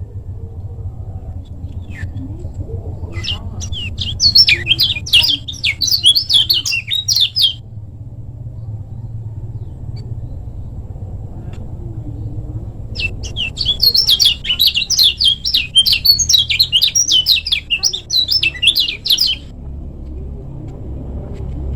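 Kecial kuning, a white-eye, singing in two bouts of fast, dense chattering song, each about four to six seconds long, over a steady low hum.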